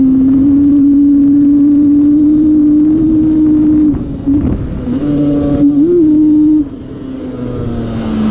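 Yamaha Banshee 350's two-stroke twin, bored out with a Cheetah 426 big-bore kit, running hard at high, steady revs. It comes off the throttle briefly about four seconds in, picks back up with a quick blip, then backs off to lower revs near the end and slowly climbs again.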